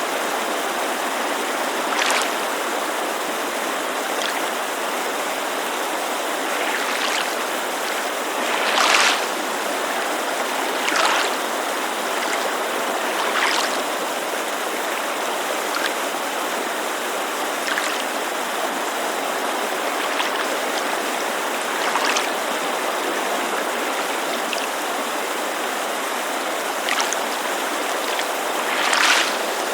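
Steady rush of a mountain creek, with small waves lapping against a lakeside shore in short splashes every few seconds, at uneven spacing.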